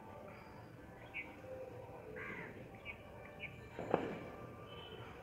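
Birds calling, a few short calls spread over faint room noise, with one sharp knock about four seconds in.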